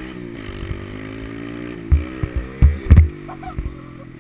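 Small four-stroke pit bike engine running, its pitch rising and falling as the throttle is worked. Several loud low thumps come between about two and three seconds in.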